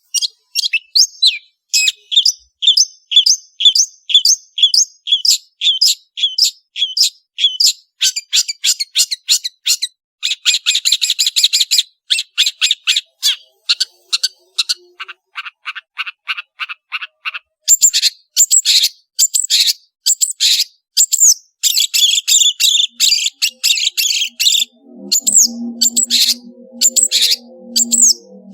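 Long-tailed shrike (cendet) singing vigorously: fast runs of sharp, high repeated notes and chattering trills, several notes a second, with no pause. Low, soft music fades in under the song near the end.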